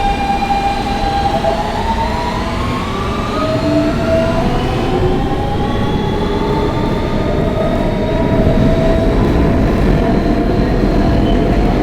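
R160B Siemens subway car running: the propulsion's tones rise in pitch over the first few seconds as the train pulls away and gathers speed, then hold steady over the rumble of wheels on the rails.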